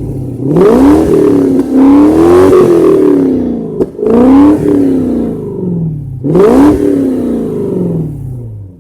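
Car engine revved hard three times, the pitch climbing quickly with each blip and then falling slowly back toward idle.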